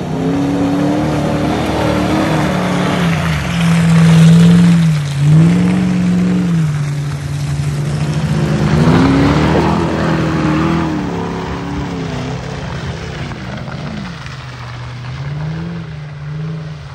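4x4 SUV engine revving under load on an off-road climb, its pitch rising and falling repeatedly as the throttle is worked, loudest about four seconds in.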